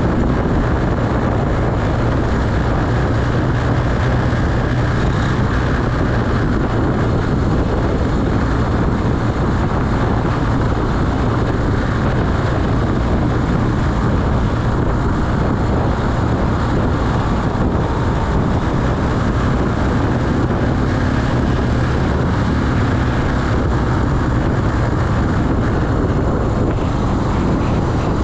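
Carburetted Honda Beat scooter's small single-cylinder engine running steadily while riding, under a constant rush of wind and road noise.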